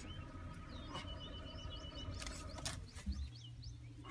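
Small birds chirping, short quick calls several times a second in the second half, over a low steady rumble.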